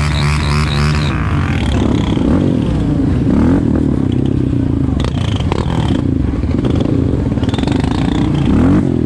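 Quad bike engine running and revving, its pitch rising and falling several times.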